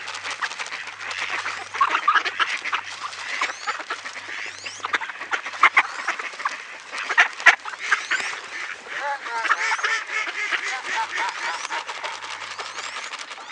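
A flock of ducks calling busily over one another, many short calls overlapping, with a few louder calls partway through: the excited chatter of ducks scrambling for scattered seed.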